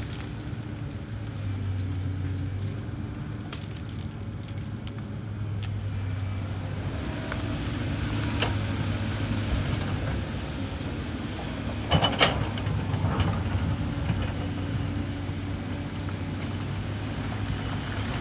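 Excavator's diesel engine running steadily, with a sharp knock about eight and a half seconds in and a short, louder clatter of knocks about twelve seconds in.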